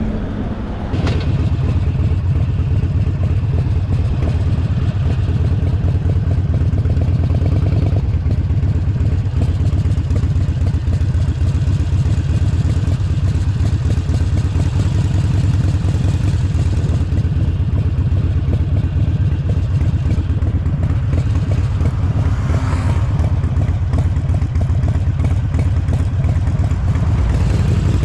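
Harley-Davidson Forty-Eight Sportster 1200's air-cooled V-twin engine running under way, close to the rider. It opens up about a second in and then holds a steady, loud, low rumble.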